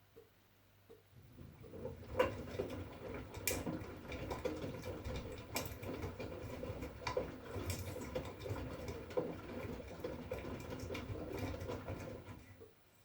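2011 V-Zug Unimatic SL front-loading washing machine turning its drum in a 40°C wash, laundry tumbling in the water with scattered knocks and clatters. The drum turns for about eleven seconds, starting about a second in and stopping just before the end, with faint ticking in the pauses either side.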